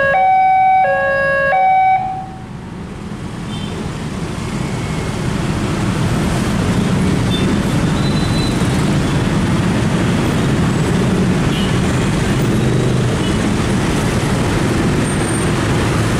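Railway level-crossing warning alarm sounding a two-tone electronic chime, each tone about half a second long, which stops about two seconds in. Then the steady, building noise of road traffic, mostly motorcycles and cars, moving through the crossing.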